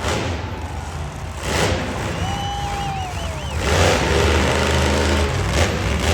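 Monster truck engine revving and running with a deep rumble that gets louder about four seconds in.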